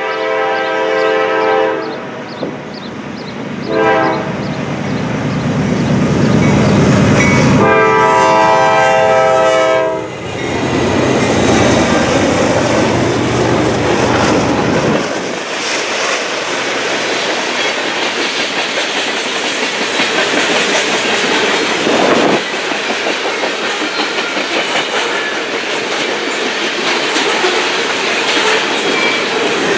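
Norfolk Southern diesel freight locomotive blowing its horn for a grade crossing as it passes: one chord held into the first two seconds, a short toot about four seconds in, and a long blast from about eight to ten seconds. The locomotive engine rumbles heavily past, and from about fifteen seconds the manifest train's freight cars clatter and rattle steadily over the rails.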